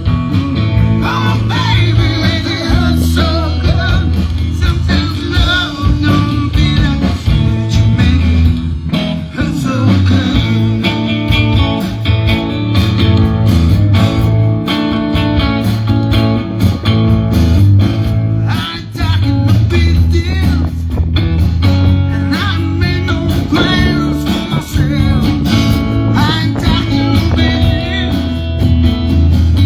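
Live band playing a blues-rock tune, guitar over a steady bass line.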